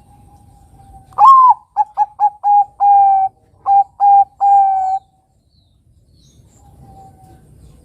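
Zebra dove (Bangkok perkutut) singing its cooing song: a rising opening note, a quick run of short coos, then a few longer held coos, ending about five seconds in. A faint single coo follows near the end.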